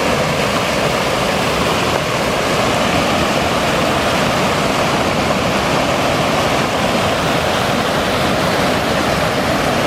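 Snowmelt stream rushing out from underneath an ice field, a loud, steady rush of water.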